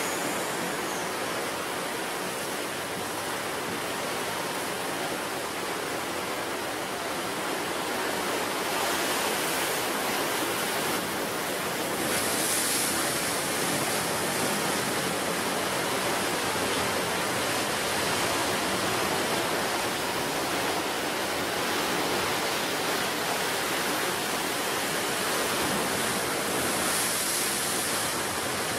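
Ocean surf on a beach: a steady wash of breaking waves, with three brief brighter hissing surges as waves break and run up.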